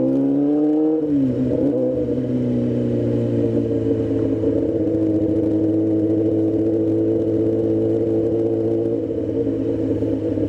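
Motorcycle engine running under way: its pitch rises for about a second, drops sharply, then holds steady as the bike cruises.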